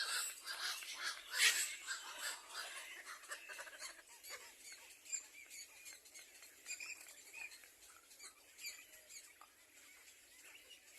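Birds calling: many short, scattered chirps and squeaks, with a louder call about a second and a half in and sparser, fainter calls after about four seconds.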